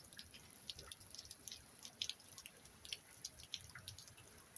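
Rain dripping and pattering: many irregular drops ticking over a faint steady hiss of rainfall.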